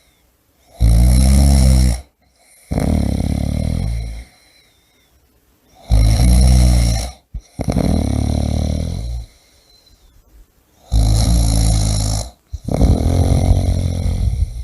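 A person snoring loudly in slow cycles about every five seconds: three pitched snores, each followed by a longer, breathier rush of air.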